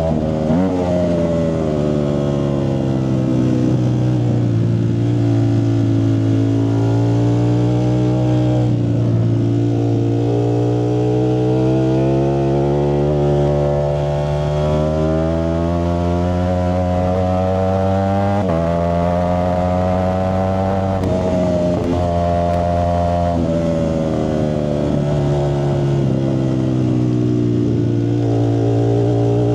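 Ducati Streetfighter V4S's 1103 cc V4 engine running through a Zard exhaust. Its note climbs slowly and then drops sharply, about 9 seconds in and again about 18 seconds in.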